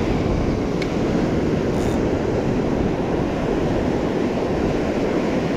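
Ocean surf washing steadily onto the beach, mixed with wind on the microphone, a continuous rush with no break; a faint tick sounds about a second in.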